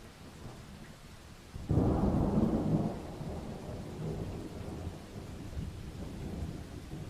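Thunder over steady rain: a sudden loud crack-and-rumble breaks out a couple of seconds in, then rolls on more quietly with swells while the rain hisses underneath.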